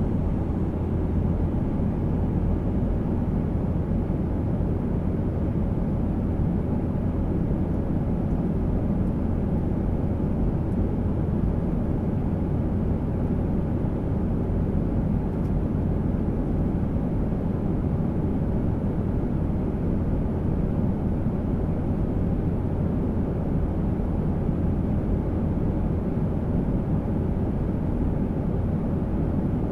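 Garuda Indonesia airliner in flight, heard as a steady, even rumble of engines and rushing air, deep and unchanging throughout.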